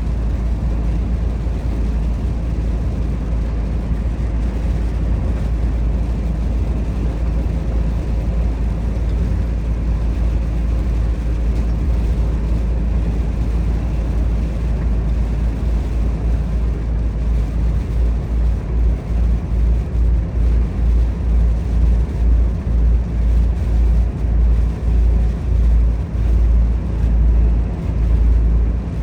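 Volvo FH 460 truck under way: its 13-litre straight-six diesel and road noise make a steady low drone. About two-thirds of the way through, the low rumble starts to throb unevenly.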